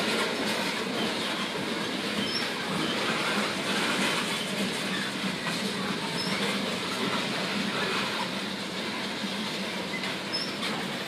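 Freight train of tank cars rolling past, with a steady, continuous noise of wheels running on the rails.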